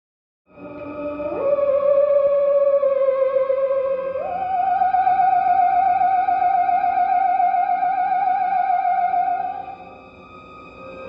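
Theremin-style science-fiction music: one wavering, vibrato-laden tone that slides up into a held note, steps higher about four seconds in, fades and then glides up again near the end.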